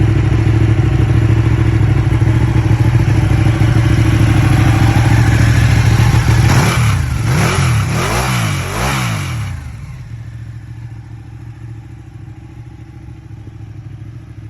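Ducati 959 Panigale's Superquadro L-twin engine running steadily, then revved in about three quick rises and falls near the middle before settling to a quieter idle.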